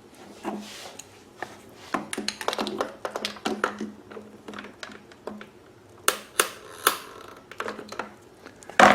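Hands working on generator parts and fuel hose: an irregular run of small clicks, taps and rustles, with a sharper knock near the end.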